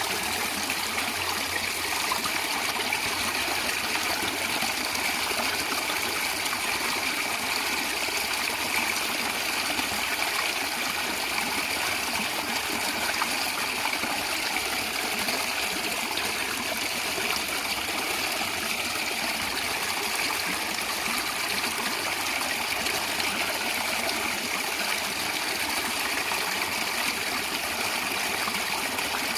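Natural stream water flowing and gurgling steadily, with little deep rumble.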